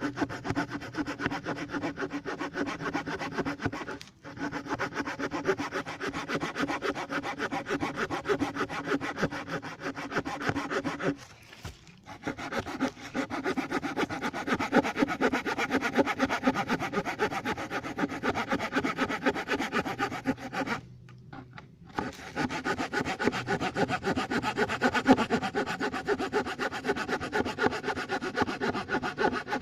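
The saw blade of a Victorinox Ranger Wood 55 pocket knife cutting through a thick, dry log with quick back-and-forth strokes. It pauses three times: briefly about 4 seconds in, then for about a second near the middle and again about two-thirds of the way through.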